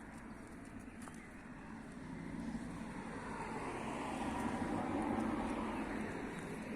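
A car passing by, its tyre and engine noise growing louder to a peak about five seconds in, then starting to fade.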